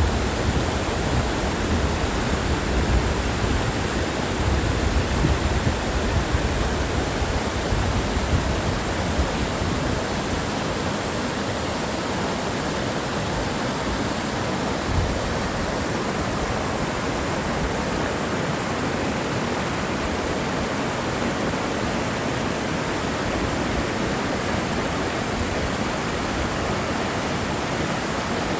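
Mountain valley stream rushing in a steady, even hiss of water. There is an added low rumble for roughly the first ten seconds, which then settles.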